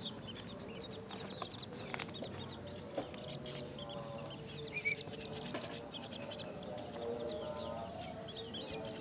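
White-breasted waterhen chick calling repeatedly as it is fed: a rapid run of short, high chirps, with lower, longer calls underneath.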